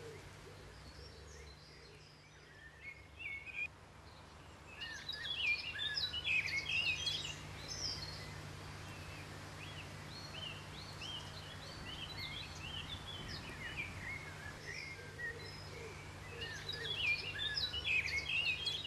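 Birds singing and chirping in a dense chorus of short calls, busiest about five seconds in and again near the end, over a steady low hum.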